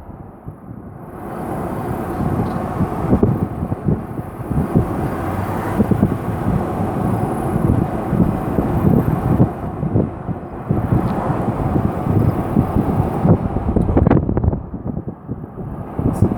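Gusting wind buffeting the microphone, mixed with the rumble of a vehicle. The noise surges and eases unevenly throughout.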